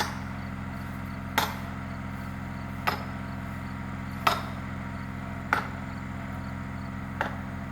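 Sledgehammer blows driving a felling wedge into the back cut of a leaning ash tree: six sharp strikes, about one every second and a half, over a steady low hum.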